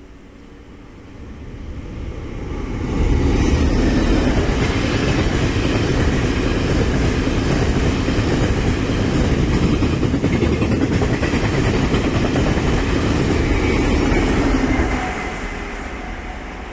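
E1000 electric push-pull express train crossing a steel railway bridge: a heavy rumble with wheel clatter builds over the first three seconds, stays loud for about twelve seconds, then fades near the end.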